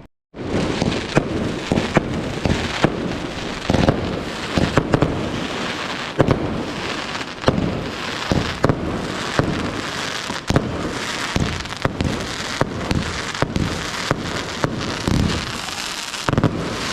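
Fireworks going off without pause: continuous crackling with sharp bangs about one or two a second. The sound starts abruptly just after the beginning.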